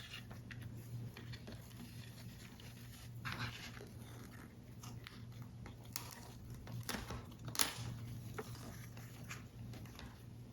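Paper model pieces being handled: soft rustling and crinkling of card stock, with a few sharp clicks and scrapes, the sharpest about two thirds of the way in, over a steady low hum.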